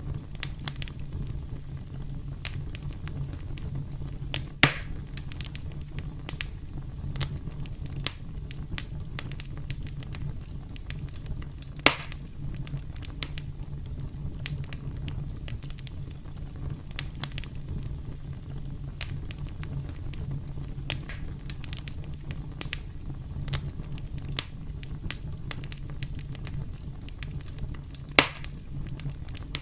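Wood campfire crackling: a steady run of small pops and snaps over a low, even rumble, with three much louder sharp pops spread through it.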